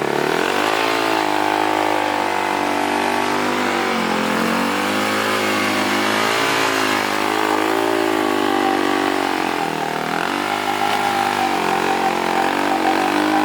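Off-road racing engine running close by and revving up and down, its pitch dipping and climbing again twice.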